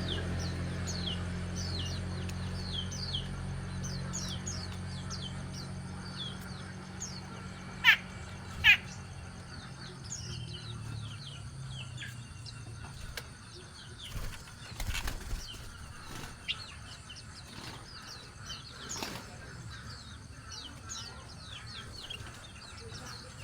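Small birds chirping over and over in short, quick, falling chirps, with two louder calls about eight seconds in and a few brief flutters of wings or rustles in the second half.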